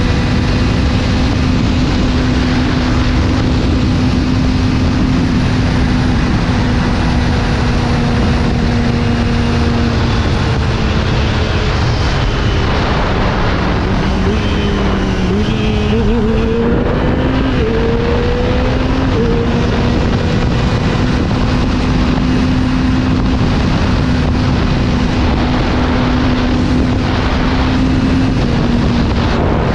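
Kawasaki ZX-25R's 250 cc inline-four, with an Akrapovič exhaust, running at a steady high engine speed under heavy wind noise on the microphone. Midway the engine note dips, wavers and climbs back in a few steps, as with throttle changes or gear changes, then settles steady again.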